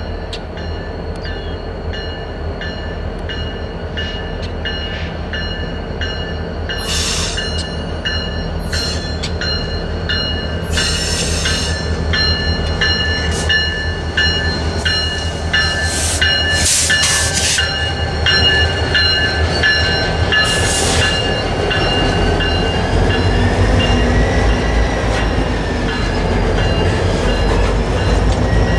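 BNSF freight train with orange diesel locomotives rumbling past, then boxcars and covered hoppers rolling by, louder toward the end. High steady wheel squeal runs through much of it and wavers near the end, with a few short sharp hisses.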